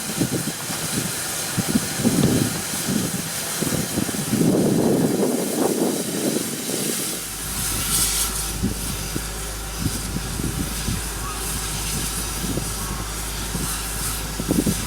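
Steam locomotive hissing steam, with a brighter rush of hiss about eight seconds in and irregular low rumbles in the first half.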